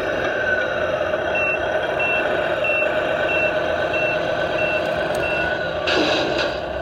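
Vehicle back-up alarm beeping at an even pace, seven short high beeps, over a steadily running engine. A short burst of hiss follows near the end.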